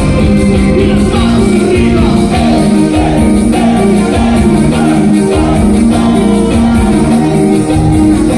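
A band playing a song loudly with a singer, over a steady beat.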